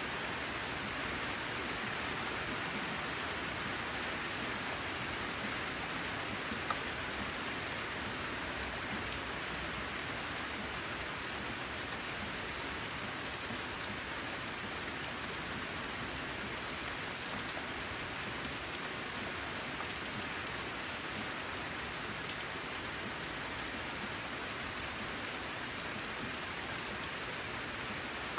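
Steady rain falling on a corrugated zinc roof sheet, with now and then a single louder drop ticking out of the patter.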